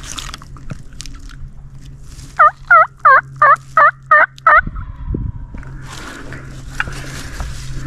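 Turkey call sounding a run of seven loud, close hen yelps, evenly spaced about a third of a second apart, each note dropping in pitch: a hunter calling to a gobbler.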